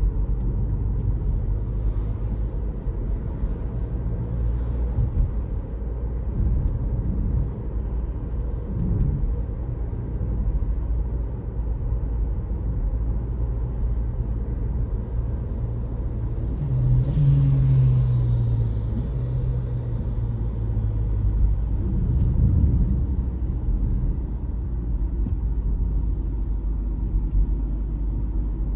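Car driving along a road: steady low engine and tyre rumble, briefly louder a little past halfway through.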